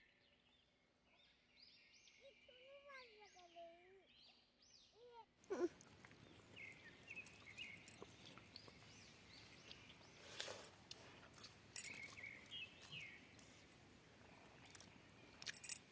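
Faint outdoor ambience with small birds chirping. About five seconds in, a steady background hiss sets in, with a few sharp clicks over it.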